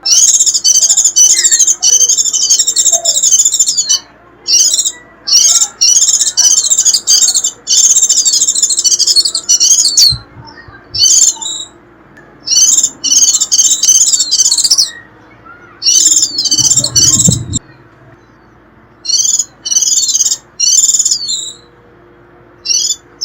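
White-eye (vành khuyên) giving its rapid, high-pitched chattering 'rít' call in phrases of one to four seconds with short pauses between, then a few short single notes near the end. This is the call used to lure wild white-eyes. There is a low thump about two-thirds of the way through.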